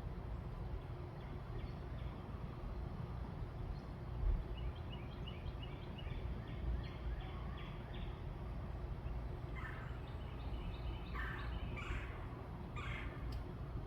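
Wild birds calling in a backyard: a quick run of short, repeated high notes, then several louder, harsh calls near the end, over a steady low rumble.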